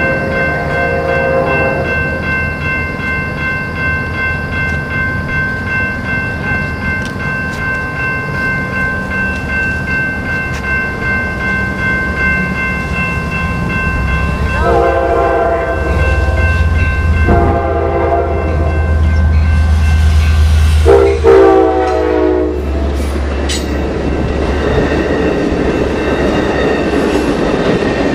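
An Amtrak Pacific Surfliner train led by an F59PHI diesel locomotive approaches and passes. A faint horn sounds at the start. About halfway through, the horn blows in four blasts, long, long, short, long, over the deep running of the diesel engine. Then the bi-level passenger cars roll by on the rails.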